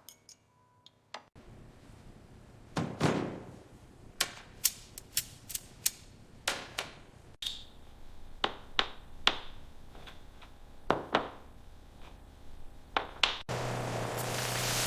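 Workshop knocks and taps of tools and metal parts, a dozen or so sharp separate strikes at irregular intervals. Near the end a steady hiss takes over.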